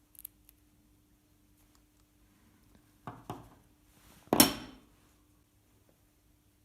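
Small parts and hand tools handled on a work surface: a few faint clicks at the start, two knocks about three seconds in, then a louder single clack a second later that rings briefly.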